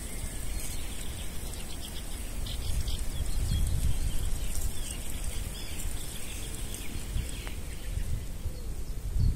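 Small birds chirping faintly over a low rumble.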